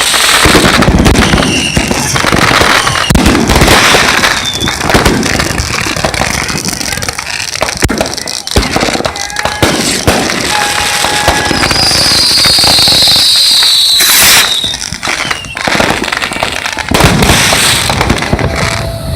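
A dense, loud barrage of firecrackers going off, crackling and banging without pause. Past the middle, a high hissing whistle lasts about two seconds and ends in a sharp crack.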